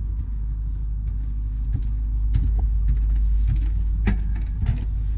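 A steady low rumble, with a few faint knocks.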